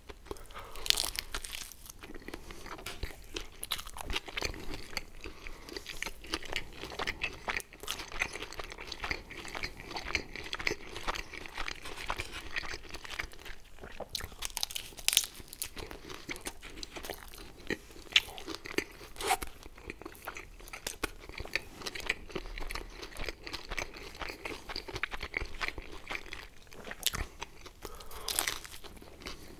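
Close-miked chewing and biting of a slice of ham and pineapple pizza: irregular crisp crunches, clicks and wet mouth smacks, with a few sharper crunches from bites into the crust.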